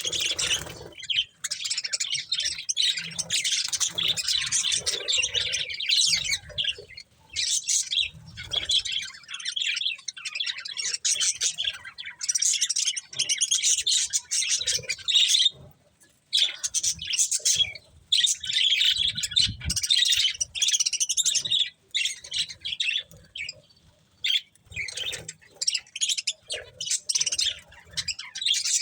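Budgerigars chattering and chirping rapidly, in busy bouts of a few seconds broken by short pauses.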